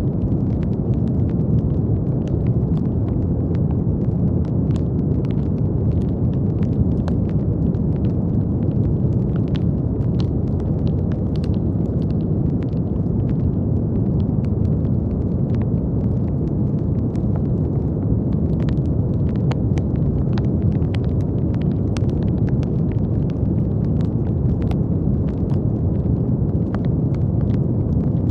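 Brown noise: a steady, deep rumbling hiss weighted toward the low end, with many faint, scattered crackles over it.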